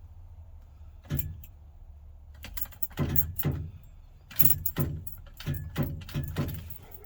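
Repeated sharp clicks, about nine of them at irregular spacing and bunching up in the second half, over a steady low hum. These are typical of a car's starter solenoid clicking each time the key is turned without the engine cranking, which the owner takes for a bad starter.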